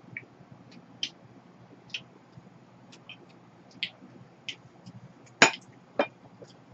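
Eating sounds: scattered small wet clicks and smacks of chewing, with two louder sharp clicks near the end.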